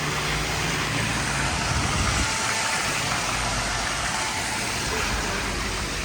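Steady hiss of heavy rain and wet road noise, with a motor vehicle's engine rumbling low underneath, strongest in the first two seconds.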